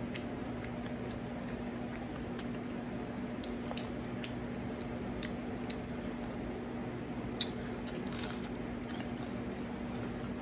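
Mouth sounds of a person eating: quiet chewing and biting with scattered small clicks and crunches, over a steady low hum.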